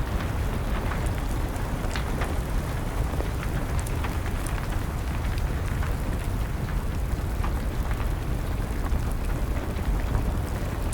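Wood fire crackling with scattered sharp pops over a steady hiss of rain, with a constant low rumble underneath.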